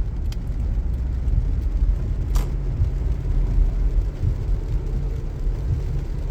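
Steady low rumble of car road noise heard from inside the cabin while driving on a wet road, with one sharp click about two and a half seconds in.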